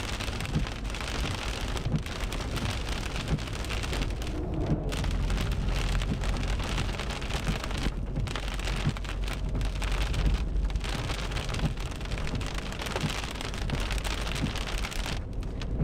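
Heavy rain beating on a car, with a low rumble of thunder swelling through the middle after a lightning flash.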